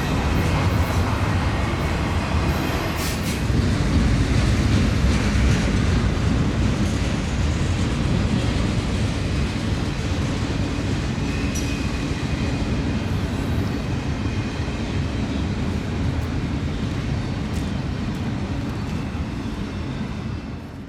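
Intermodal stack train rolling past: a steady, loud rumble of wheels on rail with a few sharp clicks from the cars.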